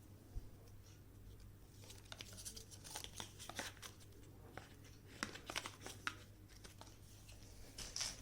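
Packaging of a stylus pen box being handled and opened: light rustling and crinkling with scattered small clicks and taps, over a faint steady hum.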